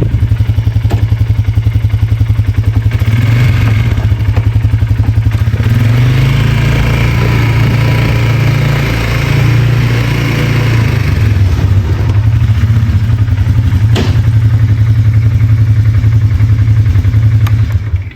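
2022 Polaris Sportsman 450 HO ATV's single-cylinder engine running under way, its pitch rising through the middle as it speeds up and then settling back down. It stops abruptly at the very end.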